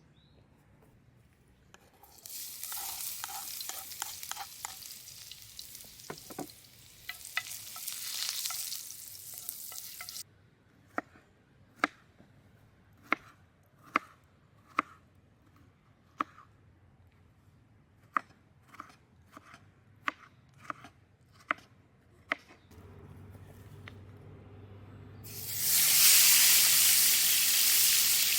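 Food sizzling in a pan over a wood fire, in two spells, the second louder. Between them comes a run of a dozen or so sharp knocks, roughly one a second.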